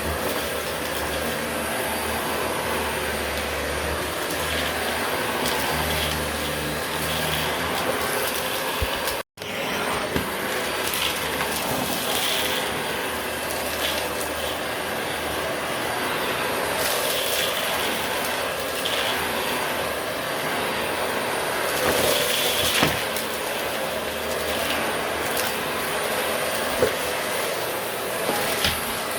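Vacuum cleaner running steadily over carpet, with scattered short clicks and rattles. The sound cuts out for an instant about nine seconds in.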